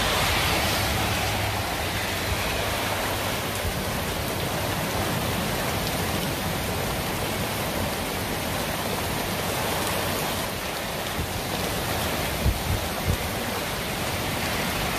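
Heavy rain falling steadily, a dense even hiss with no let-up. A few brief low thumps come about twelve and a half seconds in.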